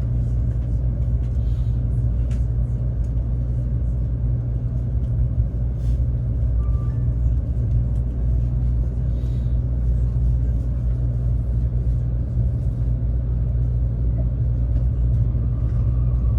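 Steady low rumble of a Taiwan High Speed Rail train running, with a few faint ticks.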